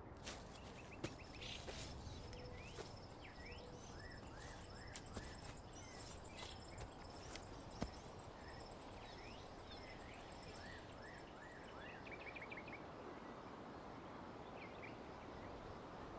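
Faint outdoor ambience: small birds chirping in short repeated calls over a steady background hiss, with a high, rapidly pulsing note like an insect trill.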